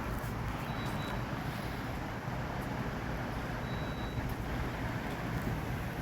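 Steady road and engine noise of a vehicle driving, even and unchanging throughout.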